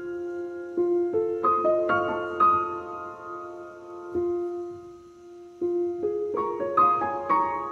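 Gentle solo piano music, notes struck singly and in small rising runs that ring out and fade.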